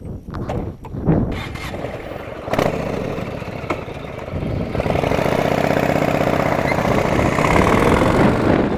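V-twin cruiser motorcycle engine starting a little over four seconds in and then running steadily, after a couple of knocks.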